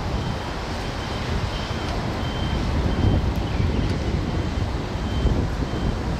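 Wind buffeting the microphone, a heavy low rumble, with a faint high beep repeating roughly every half second to second.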